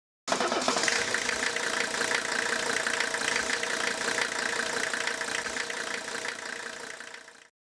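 An engine idling with a fast, even clatter and a steady hum. It cuts in suddenly and fades out near the end.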